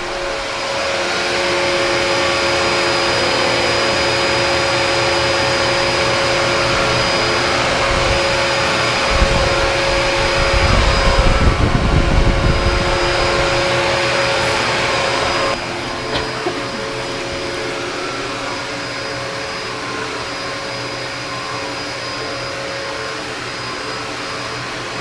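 Corded Dyson vacuum cleaner running steadily, a constant whine over its airflow noise. Near the middle it gets louder, with a low rumble and bumping, and about two-thirds of the way in its sound drops slightly and the pitch shifts.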